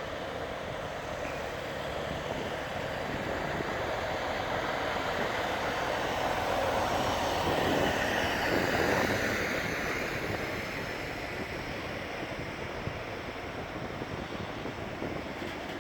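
Bombardier Flexity 2 light-rail tram passing by. Its running noise grows to a peak about halfway through, then fades away.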